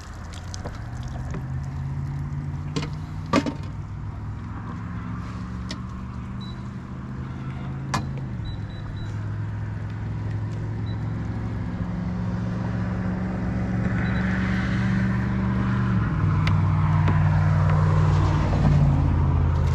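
Boat motor running at low speed, its pitch shifting in steps a few times as the throttle changes. A sharp knock comes about three seconds in and another about eight seconds in.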